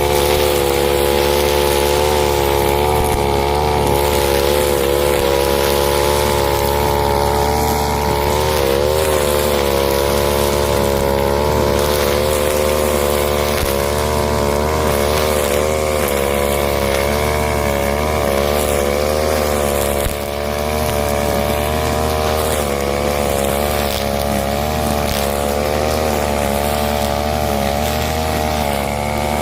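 Husqvarna 541 two-stroke brushcutter running at high revs while clearing undergrowth. Its engine note wavers throughout, with a brief dip in revs about eight seconds in.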